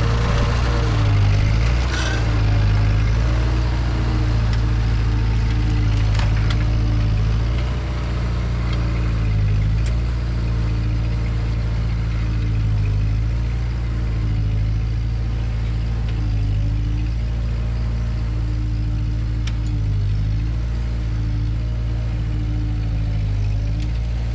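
Ford 9N/2N tractor's four-cylinder flathead engine running steadily under load while pulling a cultivator, its speed dipping and recovering every few seconds, with a few sharp clanks.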